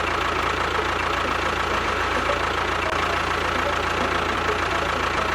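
A motor running steadily, with a constant whine over a dense mechanical noise.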